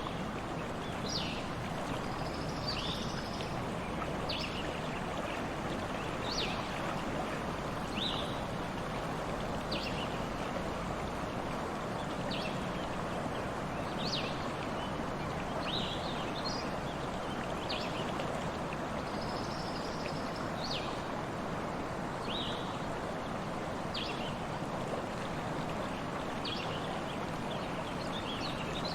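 Stream water flowing steadily, with a bird repeatedly giving short, high, downward-sweeping chirps every second or two.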